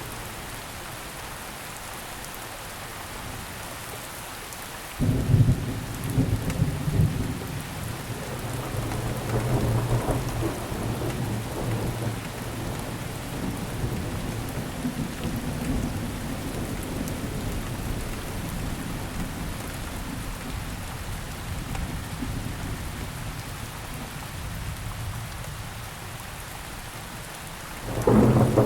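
Steady rainfall with thunder. A sudden clap of thunder comes about five seconds in and rumbles for several seconds as it fades, and another clap begins just before the end.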